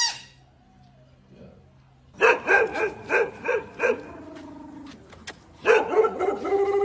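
A dog barking in two runs: about five barks starting about two seconds in, then after a short pause a longer, denser run of barking near the end.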